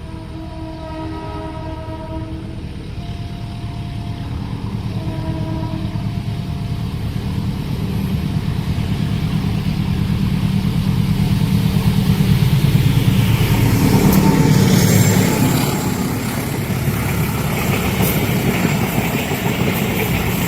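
Diesel train approaching: the locomotive's horn sounds three blasts in the first six seconds, the engine drone grows louder as it nears, and from about fifteen seconds in the wheels clatter past on the rails.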